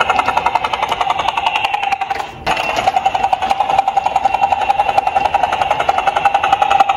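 Electronic toy police siren sounding as a fast-pulsing held tone, with a brief break about two and a half seconds in.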